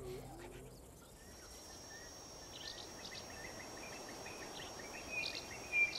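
Outdoor natural ambience: a steady high-pitched insect drone with a bird's short chirps repeating, one louder chirp near the end.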